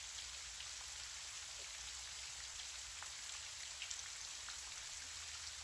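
Gentle, steady rain: a soft even hiss with a few distinct drops ticking here and there.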